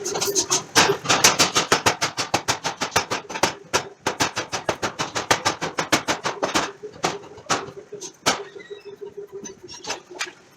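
Forging hammer striking hot steel in a fast run of blows, several a second, that thins out after about four seconds into slower single strikes and stops near the end, over a steady machine hum.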